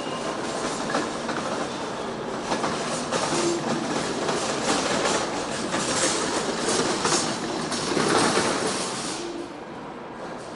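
Container train hauled by an ED76 electric locomotive rolling slowly over the station points, its wheels clacking irregularly over the rail joints and crossings. The clacking is loudest about eight seconds in, then dies down near the end.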